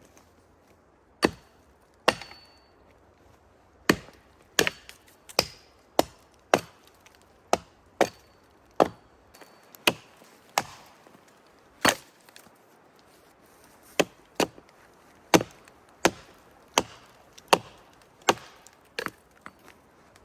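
A blade chopping into wood: about twenty sharp, loud strokes at an uneven pace of roughly one a second, a few followed by a brief high metallic ring.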